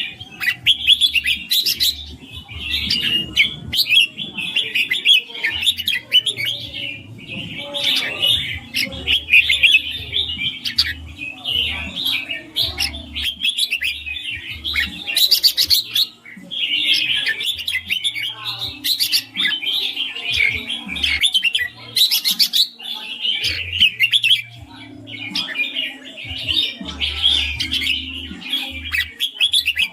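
Red-whiskered bulbul singing in repeated phrases of rapid, clear, warbling notes, with short pauses between the phrases.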